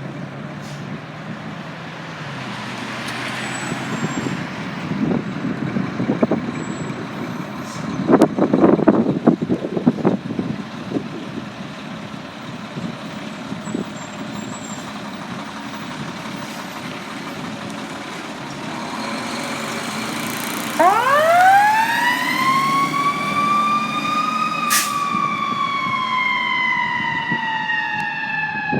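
Detroit Fire Department fire engine running, with a few seconds of louder rumbling about a third of the way in. Near the end its siren winds up steeply, then winds down slowly in one long falling tone.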